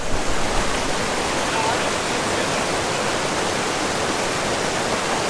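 Steady rush of a waterfall close to the microphone, an even roar of falling water.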